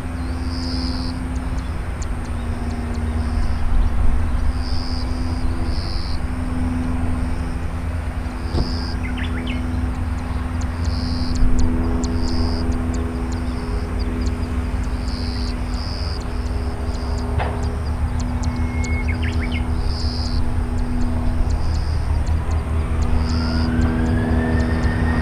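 Boeing 737-800's CFM56 jet engines running at low power with a steady hum and rumble, then, near the end, a whine that climbs steadily in pitch as the engines spool up.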